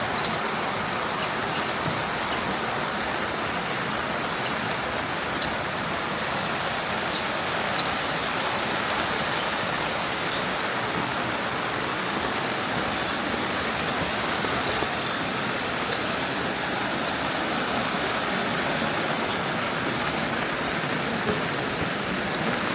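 Steady rushing water with no breaks, with a few faint scattered ticks.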